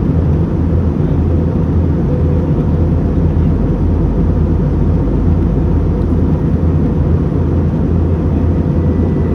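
Steady drone of an airliner in flight, heard inside the passenger cabin: an even rushing noise over a deep, constant engine hum.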